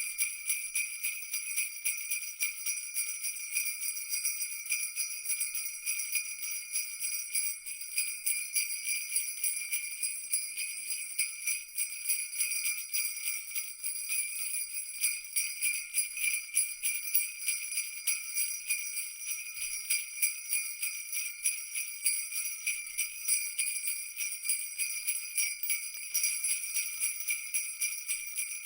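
Jingle bells shaken without a break in a rapid, even jingle, high and bright, with no low sound under it.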